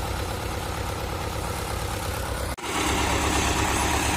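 Tractor engine running steadily with a low throb. The sound cuts out for an instant about two and a half seconds in and comes back louder.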